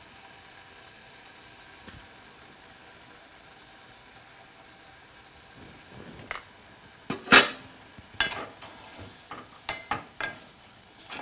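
Diced liver sizzling faintly and steadily in oil in an aluminium pot, then a loud knock about seven seconds in, followed by a wooden spoon scraping and clicking against the pot as the liver is stirred.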